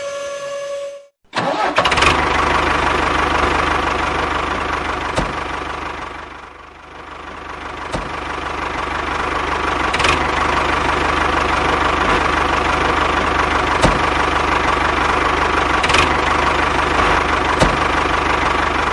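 Small motor running with a steady whir. It starts about a second in, dips and sags briefly about six to seven seconds in, then picks back up, with a few faint clicks.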